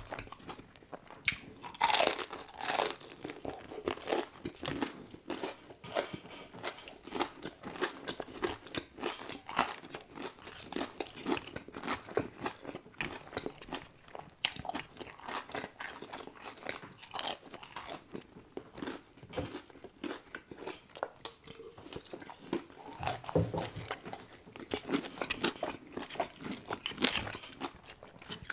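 Close-miked biting and chewing of a crispy fried chicken tender: a loud crunch about two seconds in, then steady crunchy chewing with rapid crackles and mouth sounds.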